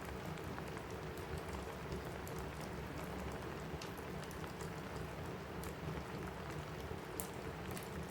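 Steady rain on a cabin roof mixed with a crackling wood fire: a constant hiss with scattered sharp pops and clicks, one louder pop about seven seconds in.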